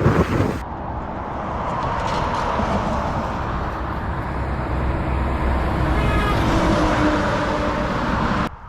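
A car driving at road speed, giving steady road and engine noise that cuts off suddenly just before the end.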